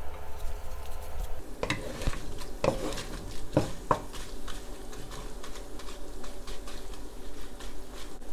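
Aromatics sizzling in hot vegetable oil in a wok on high heat, with a utensil stirring, scraping and clinking against the wok from about a second and a half in.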